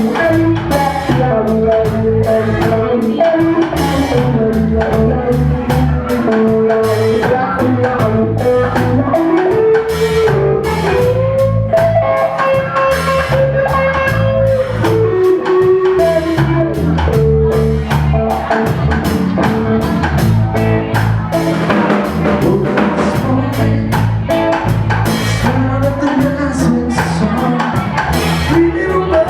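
Band playing a reggae song on drum kit, bass and guitar, with a melodic lead line held and bent over the steady beat.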